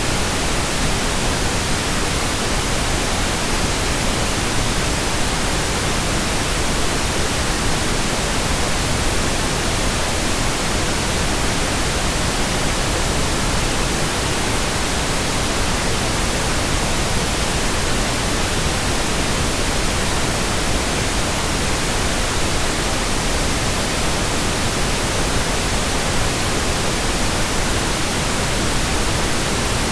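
Steady electronic white noise: an even, unchanging hiss across the whole range, with no pitch or rhythm.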